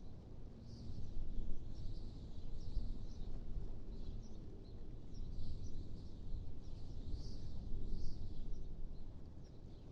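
Wind blowing in soft gusts: a low rumble that swells and fades every second or two, with faint high chirps scattered throughout.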